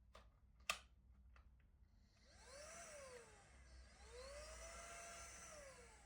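A few light clicks, one of them sharp, then from about two seconds in a vacuum cleaner's motor running. Its pitch rises and falls twice, as on bed or mattress cleaning.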